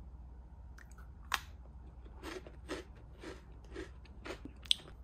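A small crunchy custard-filled biscuit ball bitten with a sharp snap, then chewed in a steady rhythm of about two crunches a second.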